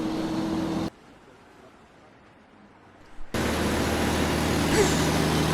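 Speeding pick-up truck's engine sound effect coming in suddenly about three seconds in and running steadily. A short hum is heard and cut off in the first second.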